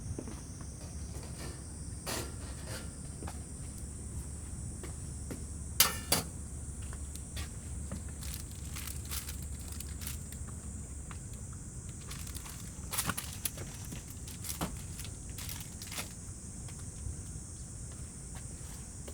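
Insects chirring steadily in a high, even drone, with a few scattered clicks and knocks, the loudest a sharp double knock about six seconds in.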